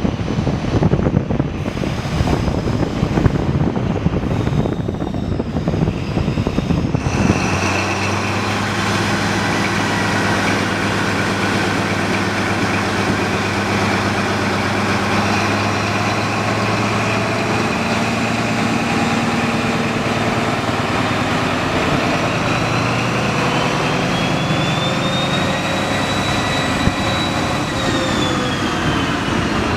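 Diesel train engine running under a rough, gusty rumble. About seven seconds in, the sound changes suddenly to a steady engine hum. Later a high whine rises, holds for a few seconds and falls away.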